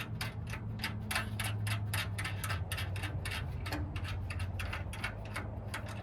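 Rapid, somewhat irregular clicking, several sharp ticks a second, over a steady low hum.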